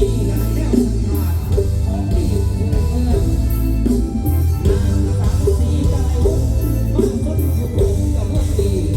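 Loud live band music: a heavy, steady bass under a plucked-string melody.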